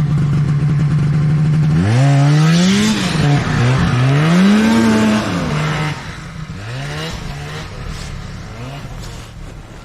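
Snowmobile engine idling, then revved several times from about two seconds in, its note rising and falling. It gets quieter and keeps fading from about six seconds on, with a couple of shorter revs.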